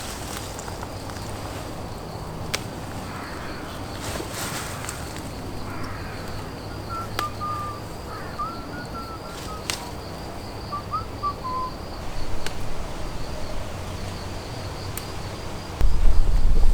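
Outdoor countryside ambience: a steady high insect hum, a bird chirping in short phrases midway, and a few sharp clicks and rustles. A low rumble rises near the end.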